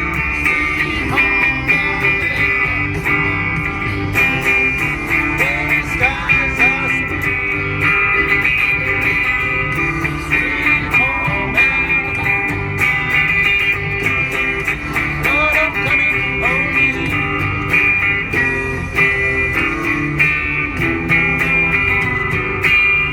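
Electric guitar played through an amp with string bends, over a backing track with a steady beat.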